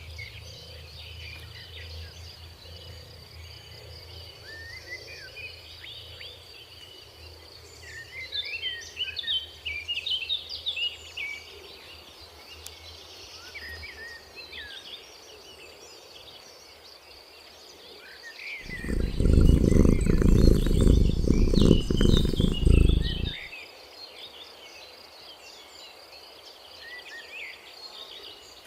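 Small birds chirping and twittering over a steady high insect trill. Past the middle, a loud low rumble lasts about five seconds and then stops abruptly.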